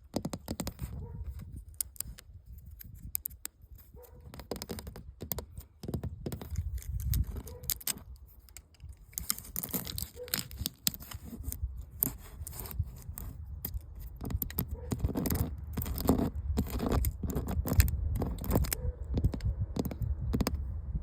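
Close-up scratching and peeling of old flaking paint off a building's surface: a long run of short, crackly scrapes and tears, busier in the second half, over a steady low rumble.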